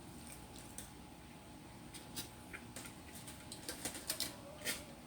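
A person chewing pizza with the mouth close to the microphone: a run of short, wet mouth clicks and smacks, coming thicker from about halfway, the loudest near the end.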